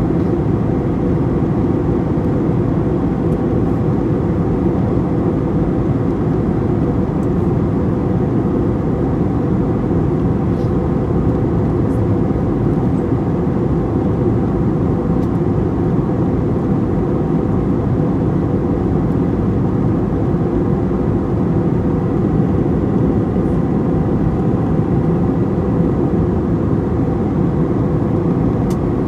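Passenger-cabin noise of an airliner in flight: a steady, unchanging low roar of the jet engines and the airflow over the fuselage.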